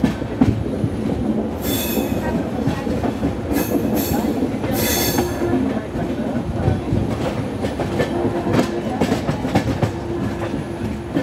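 Passenger train running, heard from an open coach door: a steady rumble with the clatter of wheels over rail joints. Three short bursts of high metallic wheel squeal in the first half, as the coaches take a curve.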